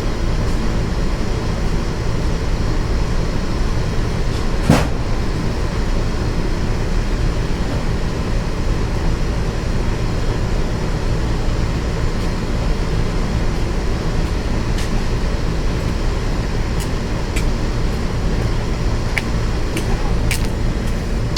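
Steady low mechanical hum, with one sharp click about five seconds in and a few light clicks near the end.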